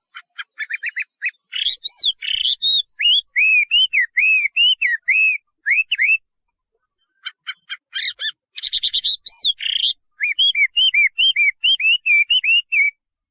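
Chinese hwamei (画眉) singing: quick runs of short clipped notes alternating with loud, repeated whistles that rise and fall, about two or three a second, with a short pause near the middle.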